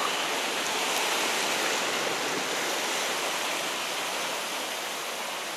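Sea water washing against shore rocks: a steady rushing hiss that swells slightly about a second in and eases off a little toward the end.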